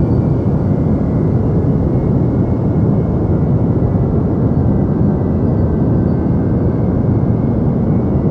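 Steady deep noise for sleep, a constant rushing hiss weighted toward the low end, with no change in level or character.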